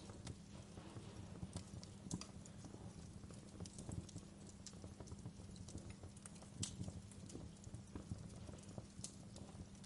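Fire crackling, with irregular sharp pops and snaps, a few louder ones around two and seven seconds in, over a steady low rumble.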